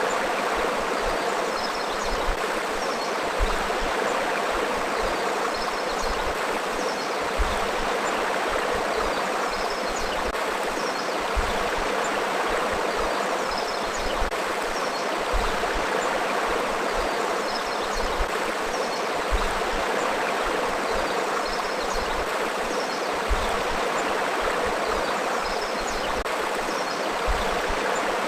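Forest river flowing, a steady, even rush of water.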